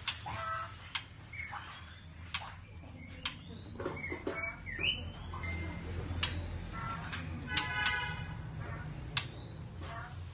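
White-rumped shama in molt giving short chirps and rising whistled notes, with irregular sharp clicks every second or two.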